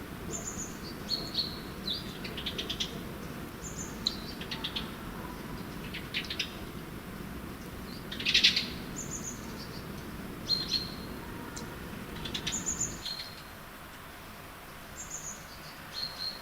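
European greenfinch singing: scattered short high chirps and rapid rattling trills, the loudest trill about eight seconds in. A low steady rumble under the song stops about three seconds before the end.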